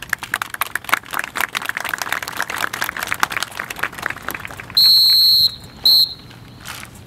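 A rapid clatter of sharp clicks and claps, then a whistle blown twice, one long blast and one short.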